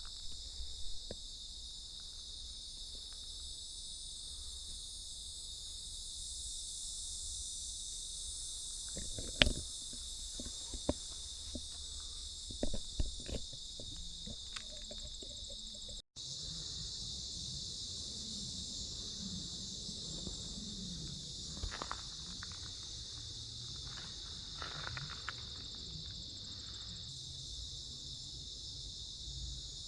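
Steady, high-pitched insect chorus in the open air, with a few sharp clicks and snaps about a third of the way in and a brief dropout just past halfway.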